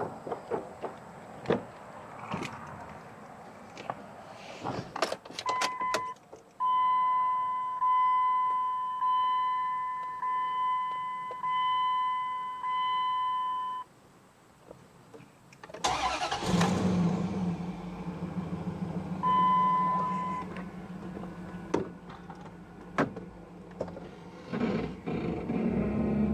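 Scattered knocks and clicks, then the Dodge Durango's dashboard warning chime sounding in a repeated run of tones for several seconds. About sixteen seconds in, the engine cranks and starts, then settles into a steady idle, with one more short chime soon after.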